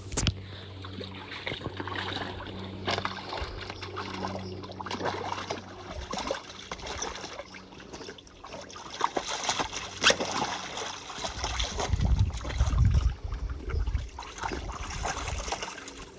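A dog splashing and pawing in a small pool of water, with irregular splashes and sloshes. A low rumble comes in about three-quarters of the way through.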